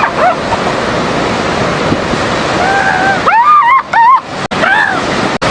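Seals calling over steady surf: a held call about halfway through, then a cluster of short, wavering calls.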